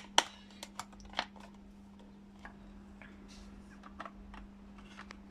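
Sharp clicks and taps of a screwdriver and plastic parts of a steam iron being worked on, loudest in the first second and a half and then fainter and sparser, over a steady low hum.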